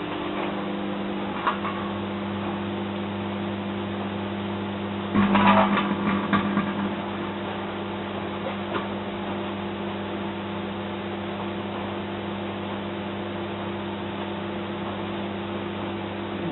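Microwave oven running with a steady mains hum. About five seconds in, a burst of crackling and popping comes from the mobile phone cooking inside.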